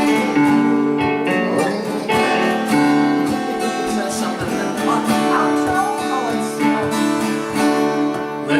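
A live band playing a song, led by strummed acoustic guitar over held chords. The song ends near the end.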